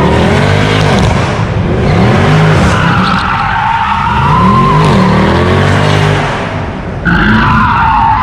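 A car doing a burnout or donuts: tires squealing continuously while the engine revs up and down over and over, about once a second.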